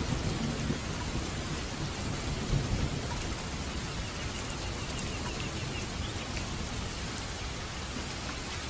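Steady rain falling, with a low rumble of thunder that dies away over the first few seconds.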